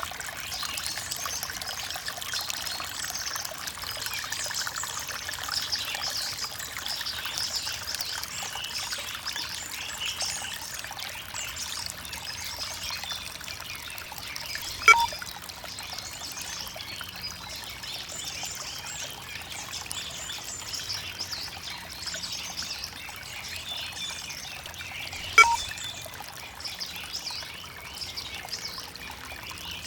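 Water trickling and pouring steadily, with birds calling through it. Twice, about ten seconds apart, a short sharp plink stands out as the loudest sound.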